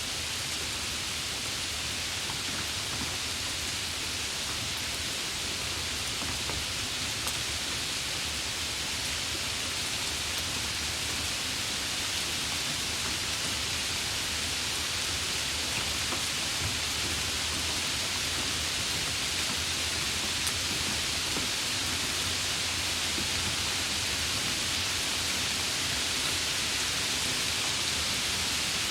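Steady rain, a dense even hiss with a few faint drop ticks.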